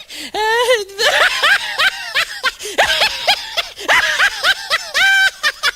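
A meme laughing sound effect: a person laughing in quick, high-pitched bursts of several syllables a second, with a longer held note near the end.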